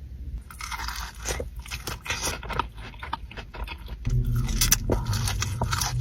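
Crunchy food being bitten and chewed close to the microphone in irregular crunching bursts, with a steady low hum joining from about four seconds in.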